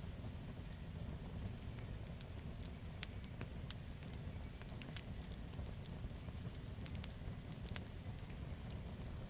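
Campfire burning, with a steady low rumble of flames and frequent sharp crackles and pops of the burning wood.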